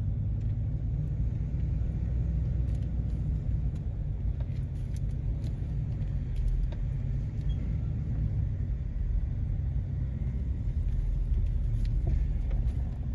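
Steady low road rumble of a van being driven, heard from inside the cabin, with a few faint scattered ticks.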